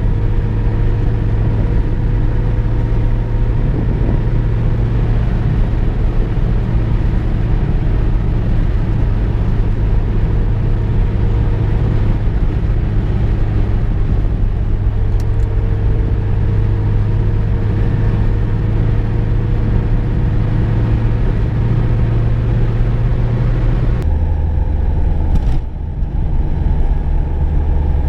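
Inside the cabin of a moving VW Golf II: steady engine drone and road rumble, with a faint engine tone slowly rising in pitch. About 24 seconds in, the drone drops to a lower, duller note, and a short click follows about a second later.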